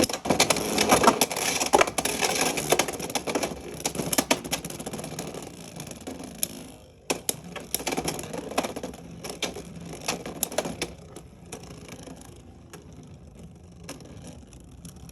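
Beyblade X spinning tops spinning and colliding in a plastic stadium, a rapid clatter of sharp hard-plastic clicks and knocks over a scraping hiss. The hits are dense for the first half; after a brief drop about seven seconds in they come further apart and the spinning hiss grows softer as the tops slow.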